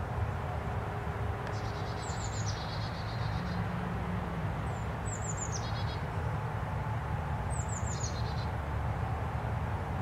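A songbird singing three short, high phrases, each a quick run of falling notes, a few seconds apart, over steady background noise.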